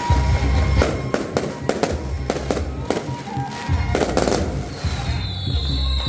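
Aerial fireworks going off in a rapid string of sharp bangs and cracks for about three and a half seconds, starting about a second in, over music with a heavy bass.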